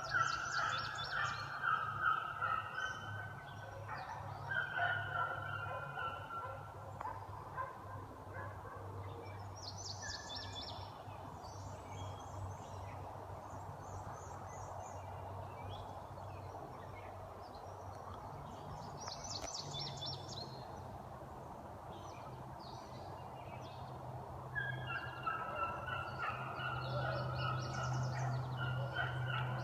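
A pack of beagles baying, several hounds crying at once, the sign that they are on a trail. The baying is loudest for the first few seconds, drops to a lull, and builds again near the end.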